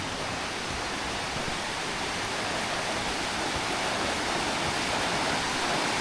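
Rushing water of a rocky stream, a steady hiss that grows gradually louder.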